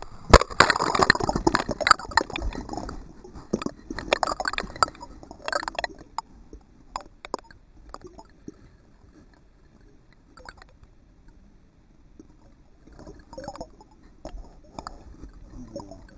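Water splashing and sloshing close to the microphone, heaviest for the first six seconds, then thinning to scattered drips and small splashes, with a little more splashing near the end.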